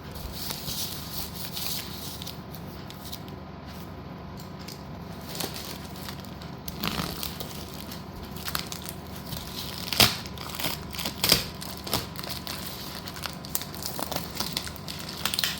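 Packaging crinkling and tearing as a parcel is opened, with scattered sharp snaps, the loudest about ten seconds in.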